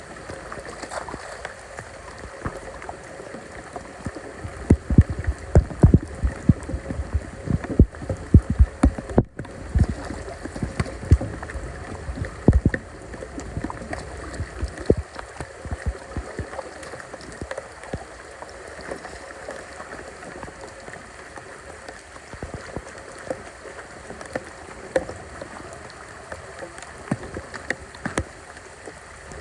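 Floodwater running and gurgling, with repeated splashes and low thumps as the water is worked through, densest during the first half.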